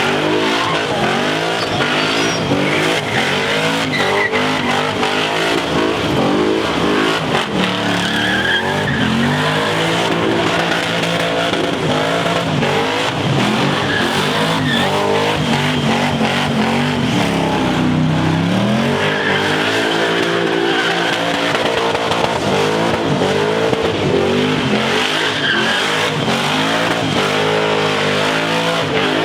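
A vehicle doing a burnout: the engine revs up and down over and over while the tires spin and squeal against the pavement.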